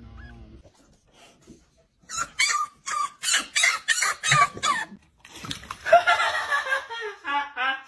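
Dog yelping in a quick run of short, shrill squeals, then a longer ragged cry that steps down in pitch near the end.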